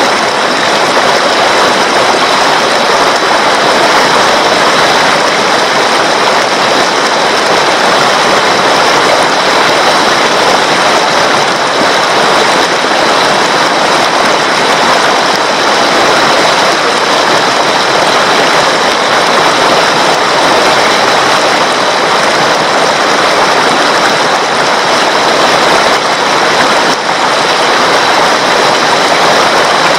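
Flowing water, a loud, steady, unbroken rush.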